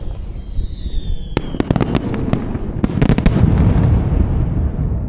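Aerial fireworks bursting. A high whistle falls in pitch over the first second and a half, then come sharp crackles, a dense cluster of cracks about three seconds in, and a heavy rumbling boom that fades near the end.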